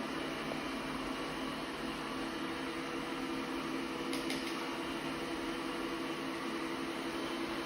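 Ecovacs Deebot N8+ robot vacuum running, a steady whir of its suction fan and brushes as it cleans along the room's edges, with two faint ticks about four seconds in.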